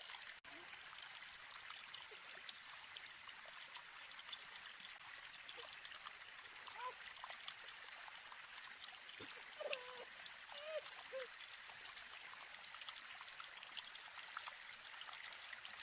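Faint steady trickle of running water with a thin, constant high whine over it. A few short sliding chirping calls come midway through.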